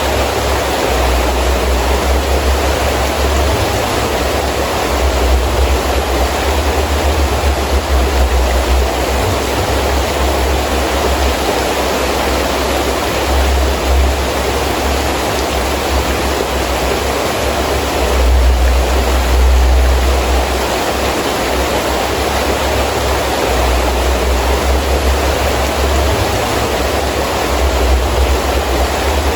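Heavy rain falling steadily with gusting wind, a low wind rumble swelling and fading every few seconds.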